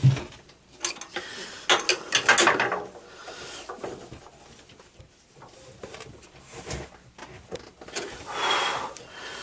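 Clicks, light knocks and scraping of hands and tools working on a garden tractor's metal parts, busiest about two seconds in and again near the end.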